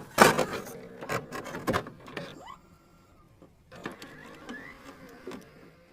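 Scattered light clicks and knocks, with a silent gap about halfway through.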